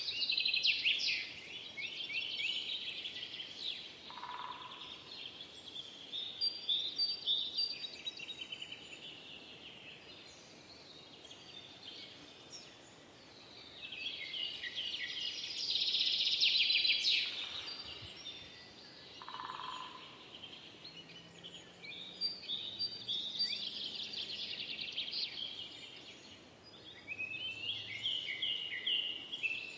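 Several forest birds singing: bouts of rapid chirps and trills come and go every few seconds, and a short lower note sounds twice, about four seconds in and again around two-thirds of the way through.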